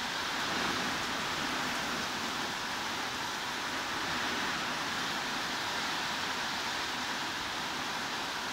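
Steady heavy rain, an even hiss with no distinct drops or pauses.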